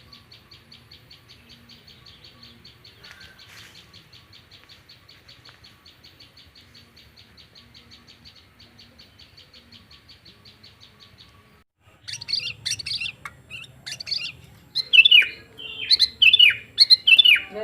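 Songbirds calling: a faint, even, high trill of about seven pulses a second for most of the stretch, then after a brief pause loud varied chirps and short downward-sliding whistles.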